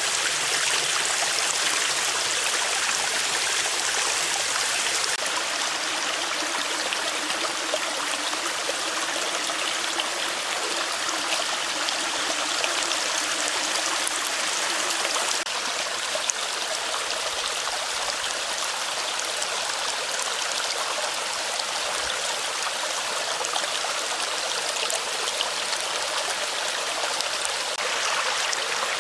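Mountain stream rushing and gurgling over rocks in a steady wash of water. Its sound shifts abruptly about five seconds in, again past the middle, and near the end.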